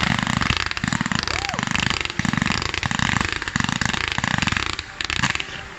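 Fireworks crackling: dense, rapid pops coming in a run of short pulses, then dropping away just before the end.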